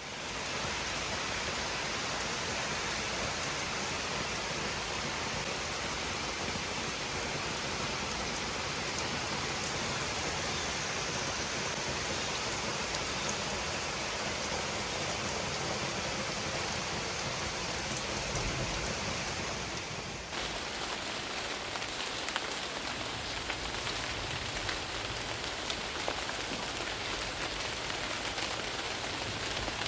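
Steady rain falling, an even hiss. About two-thirds of the way through, the sound changes abruptly to rain with more distinct drops striking a surface.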